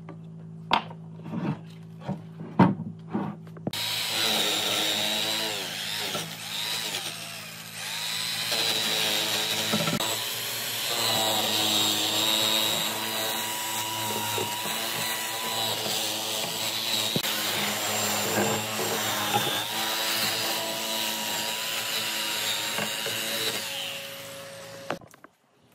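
A few sharp knocks, then a power tool cutting or grinding wood runs for about twenty seconds. Its motor pitch wavers as it takes load, and it stops shortly before the end.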